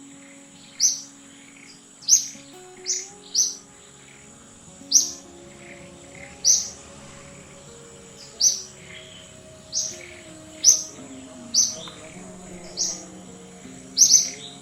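Short, sharp high-pitched chirping calls, about a dozen, repeated irregularly roughly once a second, over quiet background music.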